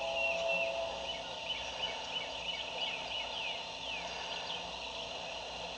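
A wild turkey gobbling faintly, a rapid run of short rattling notes over steady outdoor background noise.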